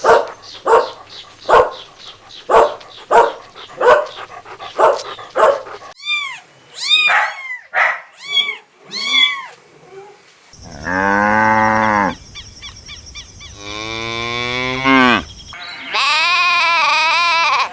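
Farm animal calls. A rapid run of short calls comes first, then a few high, arching chirps. In the second half, cattle moo three times, each a long call.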